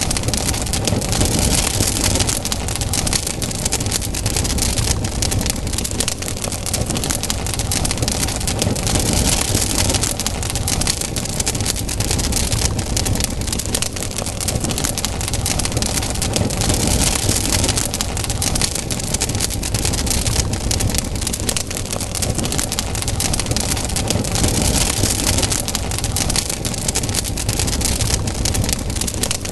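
Campfire burning, with dense crackling and popping over a steady rushing hiss and low rumble.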